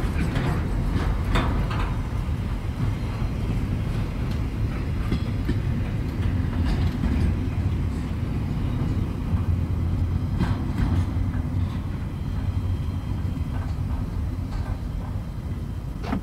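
Freight train wagons rolling past on the rails: a steady low rumble with scattered sharp wheel clicks, easing off a little near the end as the last wagons clear.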